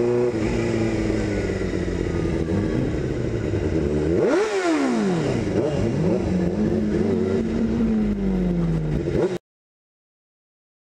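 Suzuki GSX-R600 K1's inline-four engine revving and pulling under acceleration, its pitch rising and falling. A quick, sharp rise and fall in pitch comes about four seconds in. The sound cuts out to silence about a second and a half before the end.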